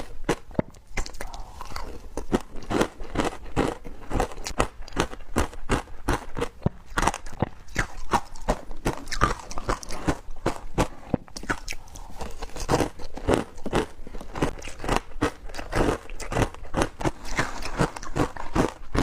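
Teeth biting into wet frozen matcha ice: an unbroken run of sharp, irregular crunching cracks, several a second.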